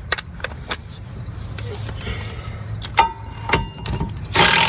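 Metal clicks and a couple of ringing clinks as a socket is fitted to a hub bolt, then near the end a cordless DeWalt impact wrench starts hammering to break the 13 mm hub bolt loose.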